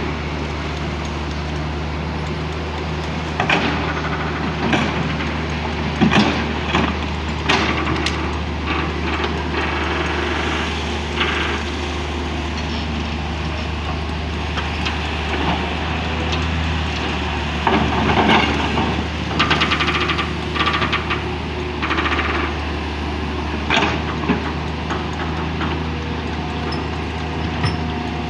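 Hydraulic excavator's diesel engine running steadily, with irregular clanks and scraping of the working machine coming in two clusters, a few seconds in and again past the middle.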